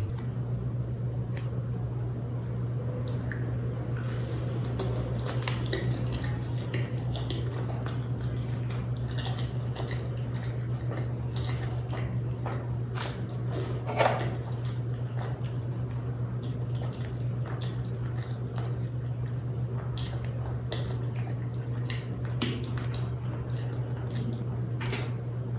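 Close-miked chewing and biting of crisp deep-fried kachori stuffed with spiced dal and dipped in chickpea curry, with many short crunchy crackles and wet mouth sounds; one louder crunch comes about 14 s in. A steady low hum runs underneath.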